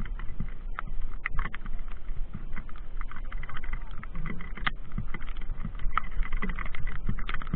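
A mountain bike rattling and clicking as it rides over rough ground, with many irregular sharp knocks and a steady low wind rumble on the microphone.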